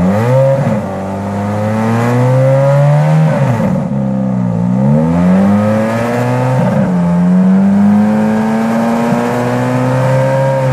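Ferrari F430's V8 exhaust held up at raised revs. The pitch drops away and comes back up a few times in the first half, then settles into a steady hold that slowly climbs.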